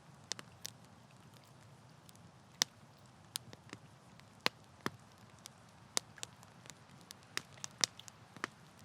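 Campfire burning, wood crackling with irregular sharp pops over a low steady hiss of flame. A few louder snaps stand out, about 2.5 s, 4.5 s and near the end.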